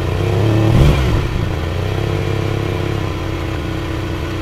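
Car engine revving briefly about a second in, then running at a steady drone.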